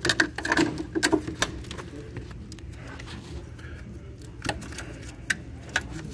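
Scattered clicks and light knocks of hands working on a car's wiring harness and plastic connectors in the engine bay. They come in a quick cluster in the first second and a half, then as a few single clicks near the end.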